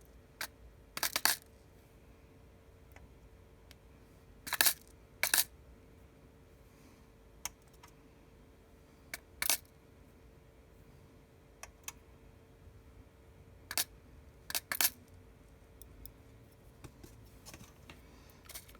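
Scattered small sharp metallic clicks and ticks at irregular intervals, a few louder than the rest: metal tweezers picking tiny screws out of an iPhone 6s and setting them down.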